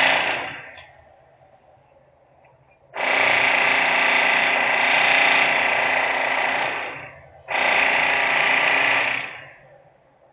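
Loud industrial machine noise coming in bursts: one dies away just after the start, another runs for about four seconds from three seconds in, and after a brief pause a shorter one of about two seconds follows. Each starts suddenly and fades out over about half a second.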